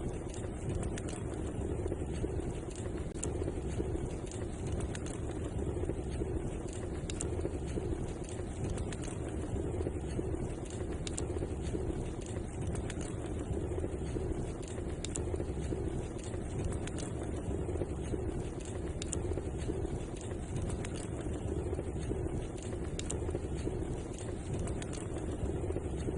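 Wood fire crackling in a fireplace: a steady low rumble with frequent small, sharp pops and snaps scattered throughout.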